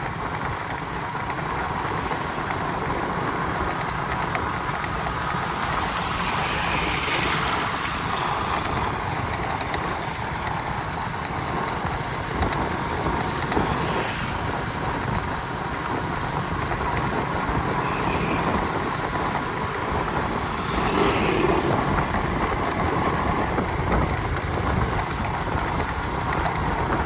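Steady running noise of a moving vehicle on a road: a low rumble under an even hiss.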